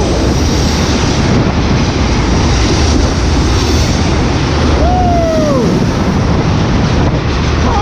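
Florida East Coast Railway freight train rolling past close by: a steady, loud roar of wheels on rail. About five seconds in, a single falling squeal lasts about a second, typical of a wheel flange grinding on the curve under the bridge.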